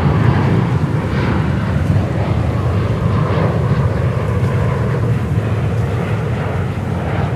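Jet airliner engines running, a steady low rumble with a hissing roar above it.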